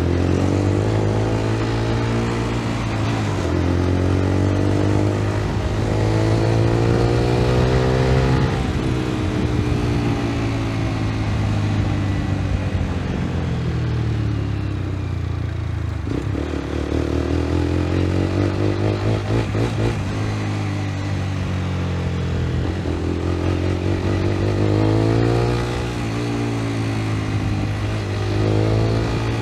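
A 125 cc motorcycle engine under way, revving up and easing off. Its pitch climbs and falls several times as it accelerates and backs off.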